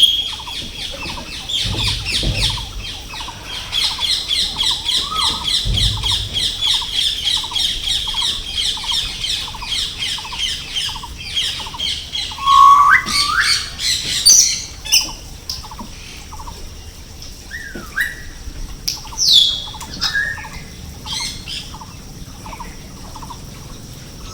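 Birds chirping and calling: a fast run of repeated high chirps, then several separate sharp, sweeping calls in the second half.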